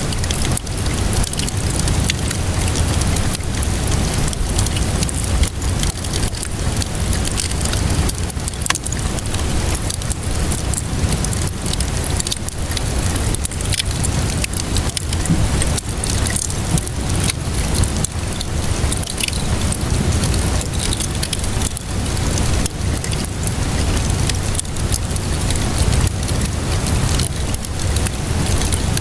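Wood fire crackling with many sharp pops over steady rainfall, with a low rumble underneath.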